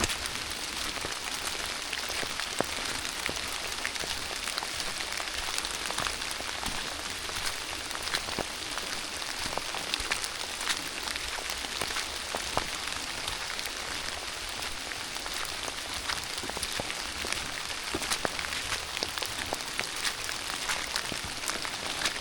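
Steady rain falling through woods: a constant hiss of rainfall with many sharp ticks of single drops hitting close by.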